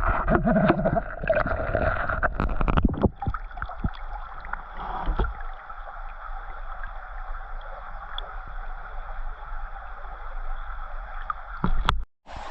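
Creek water sloshing and gurgling as someone wades and digs in it. The first few seconds are busy with splashes and knocks, then it settles into a steadier watery wash with a faint high steady tone. It cuts out briefly near the end.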